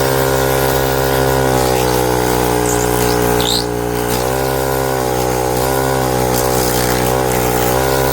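Small piston air compressor built into a portable jump starter pack, running steadily as it pumps up to a preset 35 psi.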